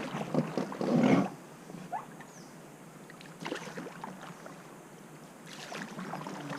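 River water rushing and splashing around an inflatable raft, loud for the first second or so, then quieter with scattered small paddle splashes, growing again near the end.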